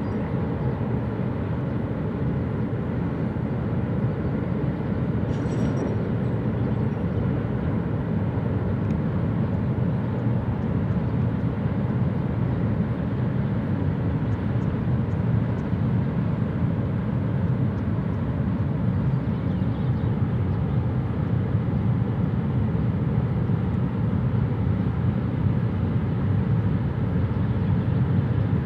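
Steady low rumble of a freight train rolling across a steel truss railway bridge, swelling slightly near the end.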